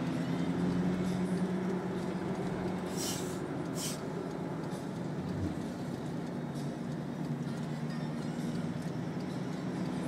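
Car engine running steadily under road noise while driving, with two short hisses about three and four seconds in.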